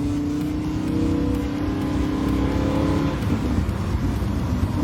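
Lamborghini engine running hard under acceleration, its note climbing a little and holding for about three seconds, then easing off.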